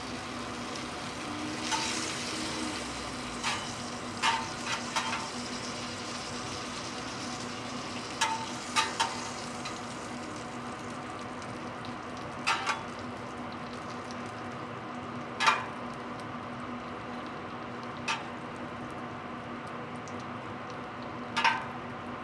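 Korean jeon (savoury pancakes) frying in oil, with a steady sizzle and a low hum underneath. About a dozen sharp clicks or taps are scattered through it, some in quick pairs.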